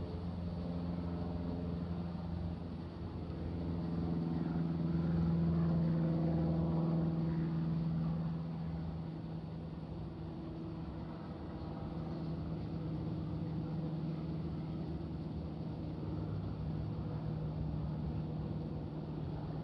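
Aircraft engines droning as a plane passes over, a steady hum that swells to its loudest around six seconds in and then slowly fades.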